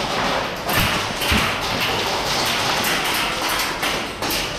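Continuous rustling and handling noise with a few dull thumps and taps, typical of a player moving in airsoft gear with a body-mounted camera.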